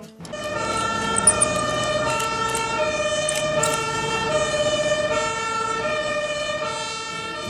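Fire truck two-tone siren, switching between a higher and a lower pitch about every three-quarters of a second, over the steady noise of the truck driving.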